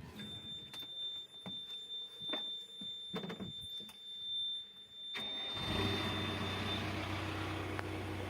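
A backhoe loader's diesel engine starting about five seconds in and then idling steadily. Before it, a steady high-pitched beep sounds with a few clicks and knocks, and the beep stops soon after the engine catches.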